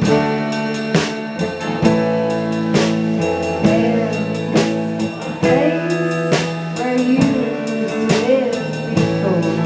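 A live blues-rock band playing: electric guitar chords held and changing in steps over a drum kit's regular hits, with a voice singing over it from a few seconds in.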